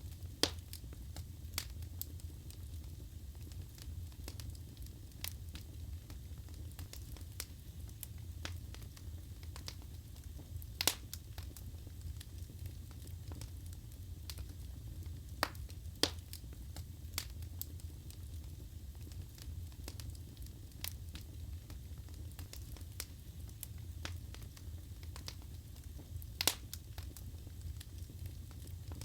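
Wood fire burning in a fireplace: a steady low rumble of flame with scattered sharp crackles and pops from the burning wood, a few of them louder snaps.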